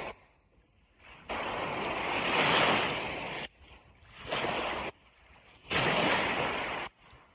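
Ocean surf washing on a beach, a steady rushing hiss of breaking waves that cuts in and out abruptly, three times, with near-silent gaps between.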